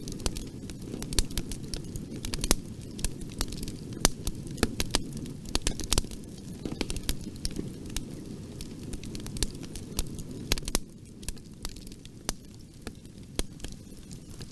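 Wood fire crackling and popping in a fireplace: irregular sharp snaps, a few louder pops, over a low steady rumble of flames that drops away a little after ten seconds in.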